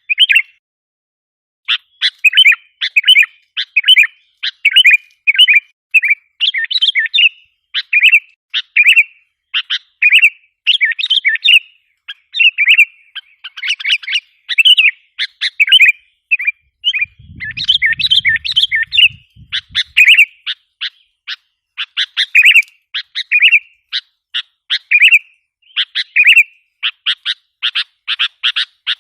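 Sooty-headed bulbul (kutilang) calling in quick runs of short, chattering notes, phrase after phrase with brief gaps: a lure call meant to draw wild bulbuls in.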